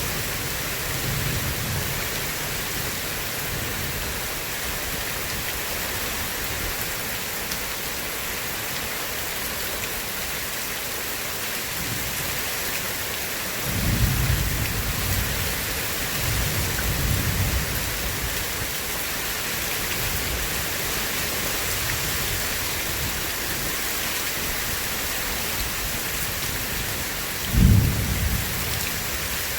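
Steady heavy rain with rolls of thunder: a low rumble swells about halfway through, rumbles on for a few seconds, and a sharper, louder thunderclap comes near the end.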